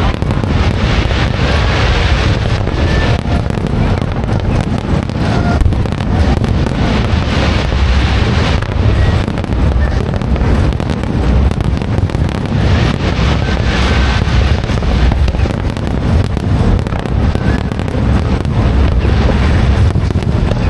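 Aerial fireworks display: a dense, unbroken string of bangs and crackles over a heavy low rumble.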